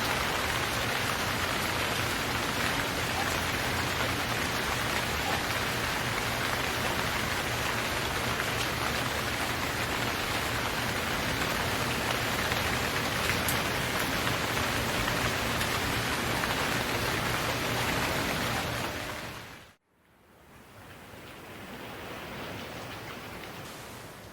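Steady rain, an even hiss that fades out about two-thirds of the way through. After a moment of silence, a softer hiss swells up and fades away again.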